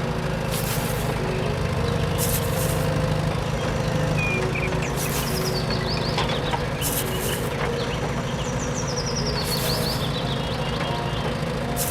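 A steady low motor hum, with short high chirps and a few falling runs of quick ticks coming every second or two over it.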